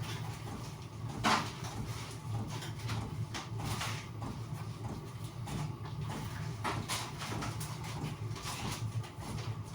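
Sheet roofing felt being handled and folded: irregular crackling, rustling and scraping with a sharp crack about a second in, over a steady low hum.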